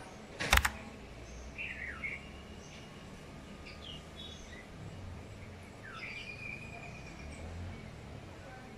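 Small birds chirping now and then over a steady low background noise, with one sharp click about half a second in.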